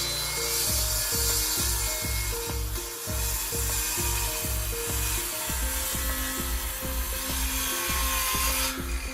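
A steady hiss of a tool working wood, which cuts off shortly before the end, over background music with a melody and a steady beat.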